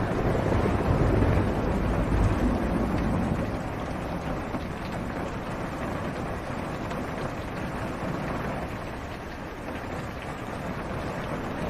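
Steady rain on a car's roof and windows, heard from inside the cabin. A low rumble of thunder swells during the first few seconds, then fades back into the rain.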